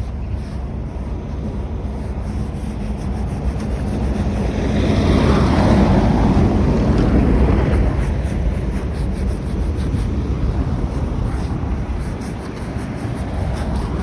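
Steady vehicle and road rumble with wind noise, swelling louder between about five and eight seconds in, then settling back.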